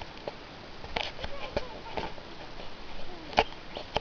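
Footsteps on the rainforest floor: irregular light crackles and snaps of leaf litter and twigs underfoot, with faint voices in the background.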